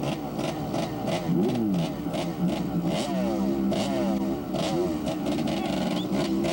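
Motorcycle engines revving, the pitch rising and falling about a second in, then running at a steady idle from about halfway, with sharp ticks several times a second.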